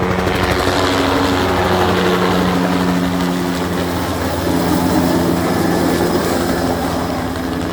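Agricultural helicopter spreading fertilizer at treetop height, its rotor and engine making a loud, steady drone with a pitched hum that shifts slightly in pitch about halfway through.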